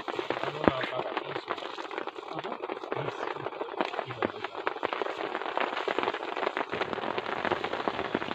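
Steady heavy rain falling, a dense irregular patter of drops striking a surface.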